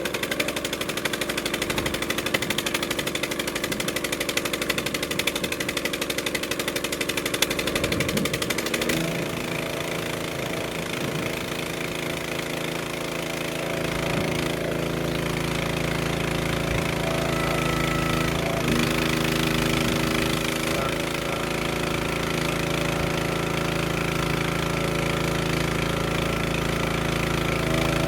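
Wood splitter's small engine running steadily with a rapid pulsing beat; its note changes about nine seconds in and shifts again briefly around nineteen to twenty-one seconds.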